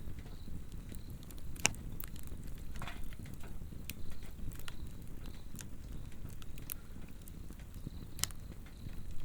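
Swedish torch (a slotted upright log) burning: the fire crackles with scattered sharp pops over a low, steady rustle of flame, with faint insects chirping.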